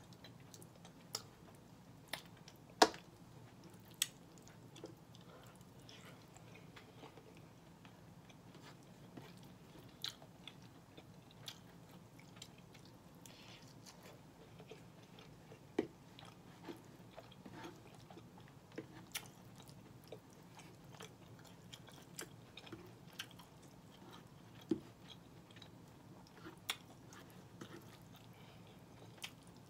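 Close-up chewing and mouth sounds of a person eating soft food (rice, red beans and smoked turkey meat), with scattered sharp clicks, the loudest about three seconds in.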